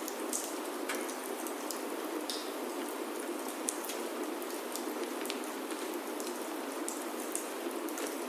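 Steady rain falling on a wooden chalet roof, with many scattered sharp ticks of single drops.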